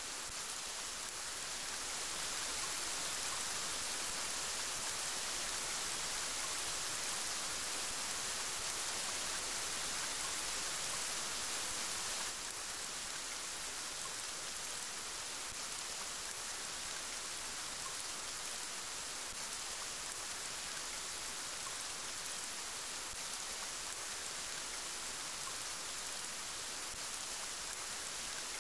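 Steady rain falling, an even dense hiss of drops. It is slightly louder for the first several seconds, then drops suddenly a little about twelve seconds in.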